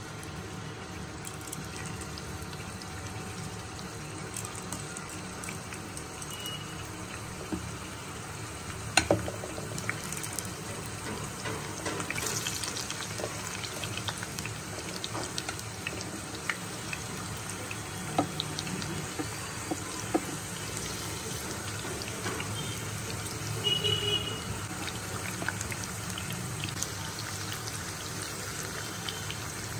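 Boiled potato slices sizzling as they shallow-fry in hot oil in a nonstick pan: a steady hiss with scattered crackles and a few sharper clicks.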